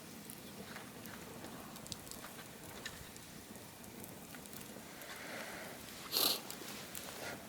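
Bonfire crackling faintly with scattered small pops, and one louder, sharper crackle about six seconds in.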